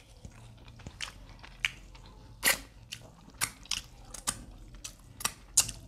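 Close-miked mouth sounds of eating rice and stew: chewing with sharp, wet lip smacks and clicks at irregular intervals, some louder than others.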